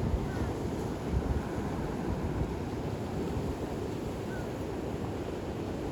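Gulf of Mexico surf washing steadily onto the beach, with wind buffeting the microphone in low gusts during the first second or so.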